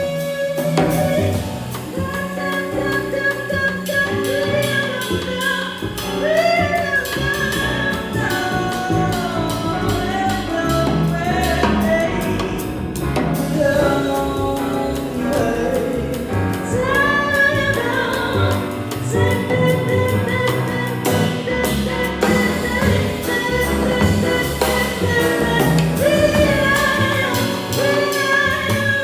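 Jazz music: a woman's voice sings wordless lines, some sliding and some held for several seconds, over a continuous instrumental accompaniment.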